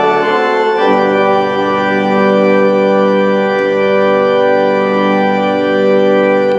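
Church organ playing: the chord changes about a second in, then a long final chord is held and cut off abruptly near the end.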